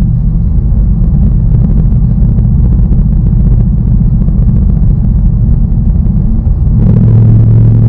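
2019 Ford Mustang Bullitt's 5.0-litre V8 running under way, a steady low rumble. A steady droning note fades just after the start and comes back about seven seconds in.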